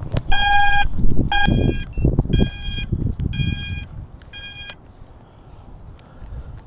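Electronic beeper sounding five harsh beeps about one a second, then stopping, over footsteps and handling noise.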